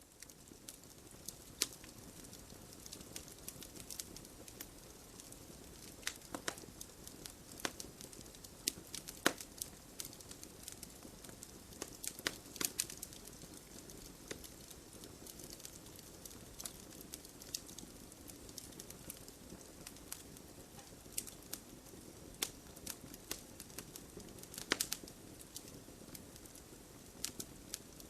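Wood logs burning in a fireplace: a steady low hiss of flame with frequent irregular crackles and a few sharper pops.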